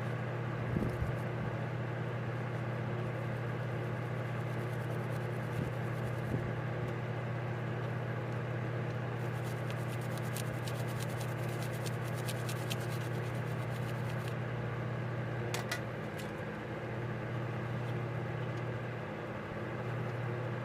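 Steady low mechanical hum throughout. In the middle come stretches of quick, dry scratching, typical of a small scrubbing brush working over carburetor parts.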